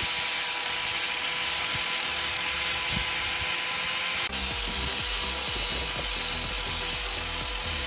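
Electric power sander running steadily against a boat's hull, sanding off the bottom paint. The sound changes abruptly about four seconds in, where one stretch of sanding gives way to another.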